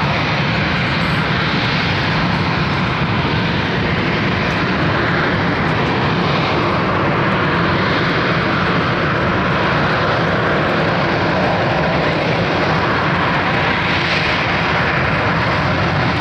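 Harrier jump jet's Rolls-Royce Pegasus turbofan running at high power: a loud, steady rushing jet noise that swells slightly now and then.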